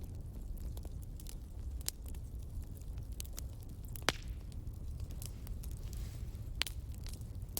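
Fireplace fire crackling: a steady low rumble of burning logs with scattered sharp pops and snaps, the loudest about two, four and six and a half seconds in.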